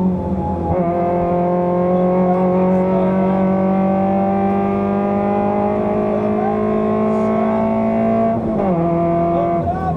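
Fiat Seicento rally car's engine heard from inside the cabin, pulling hard with the revs climbing slowly. The revs drop sharply near the end.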